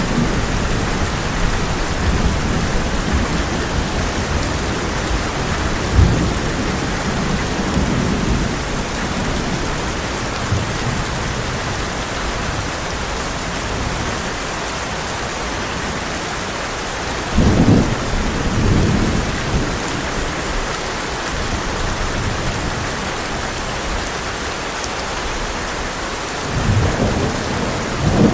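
Heavy rain falling on a tin roof as a steady hiss, with thunder breaking in: a short sharp clap about six seconds in, a double rumble about two-thirds of the way through, and another rumble near the end.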